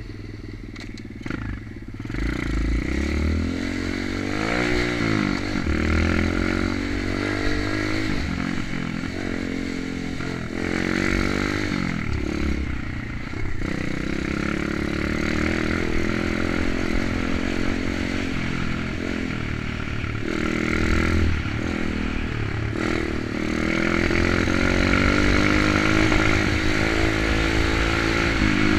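Kayo 125 pit bike's single-cylinder four-stroke engine being ridden, revving up and dropping back again and again as it pulls away and accelerates. It gets louder about two seconds in.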